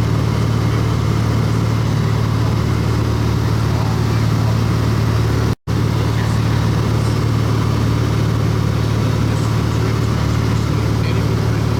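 Light aircraft's piston engine and propeller droning steadily, heard inside the cabin. The sound cuts out for an instant about halfway through.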